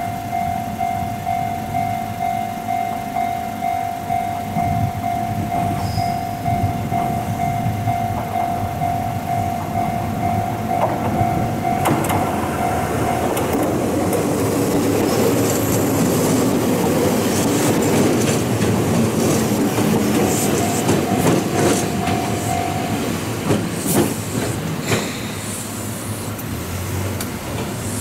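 Japanese level-crossing warning bell ringing in steady pulses. Then an Ohmi Railway electric train runs in over rail joints with clicking wheels, a rumble and some high squealing as it slows. The bell stops partway through, sounds again briefly, and ends a few seconds before the end.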